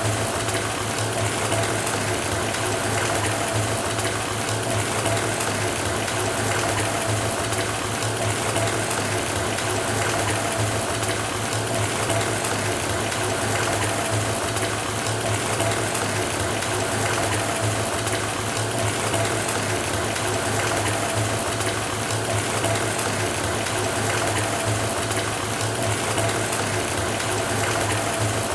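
Water running from a faucet into a filling bathtub: a steady rush of splashing water, with a constant low hum and a faint steady tone underneath.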